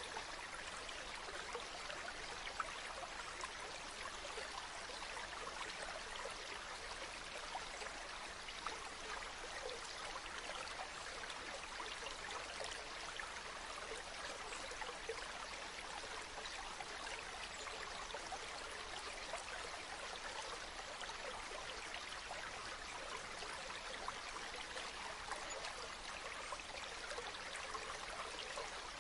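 Stream of running water flowing steadily, an even babbling hiss with small splashes, unchanging throughout.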